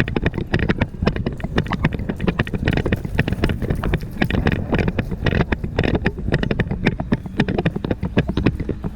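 Horse being ridden, heard from a rider-worn action camera: quick, irregular knocks of hoofbeats and jostling gear, with wind rumbling on the microphone.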